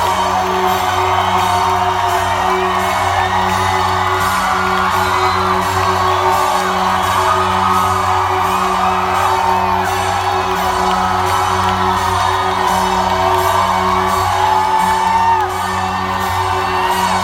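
Live band playing loudly in a concert venue, with sustained low held notes under the music, and the crowd whooping and singing along.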